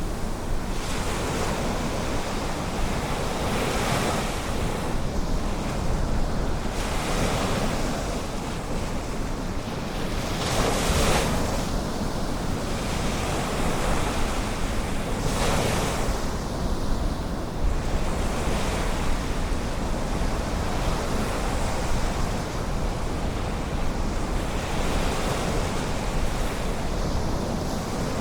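Ocean surf: waves breaking and washing in as a continuous rushing noise that swells every few seconds, loudest about eleven seconds in.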